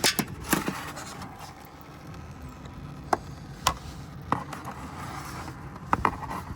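Sharp clicks and light scrapes, about half a dozen, spread irregularly, from a tool working at the radiator's plastic drain plug while coolant drains.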